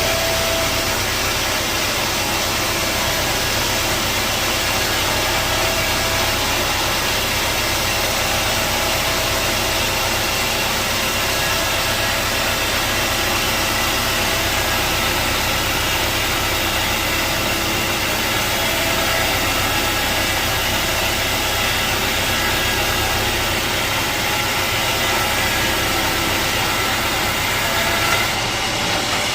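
Sawmill wheel saw machinery running steadily, a constant mechanical drone with several fixed tones over a noisy hiss, shifting briefly near the end.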